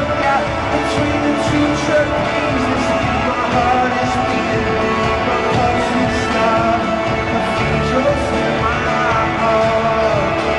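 Live rock band music: a loud, steady instrumental passage with melodic lead lines over drums and bass, with some wordless singing.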